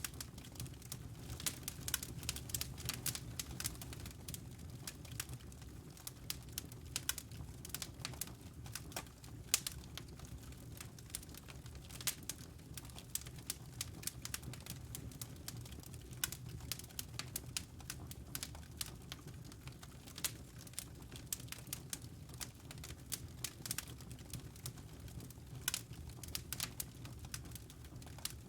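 Wood fire in a fireplace crackling: irregular sharp snaps and pops over a low, steady rumble of burning.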